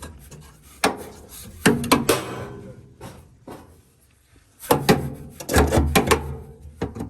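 Several knocks and scraping sounds of something hard being handled and slid, with a pause in the middle and a cluster of knocks near the end.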